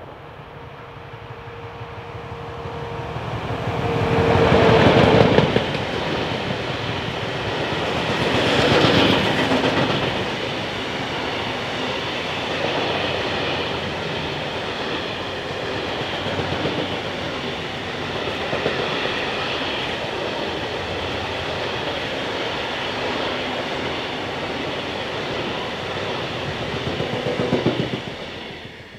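Freight train passing close by. The locomotive comes in with a steady tone and is loudest about five seconds in. A long run of covered hopper wagons follows, their wheels rolling on the rails, until a last swell as the final wagon goes by near the end.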